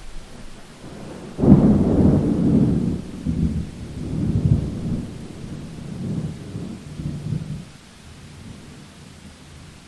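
Rainstorm: steady rain hissing, with a thunderclap that breaks suddenly about one and a half seconds in and rolls on in several low surges before fading out after about six seconds.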